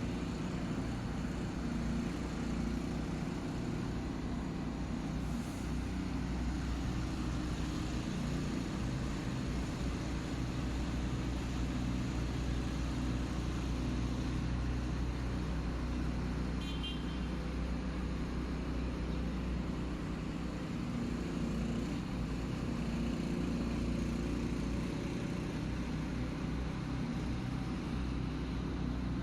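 Steady low drone of a running vehicle engine amid road traffic noise. A short high-pitched beep sounds once about two-thirds of the way through.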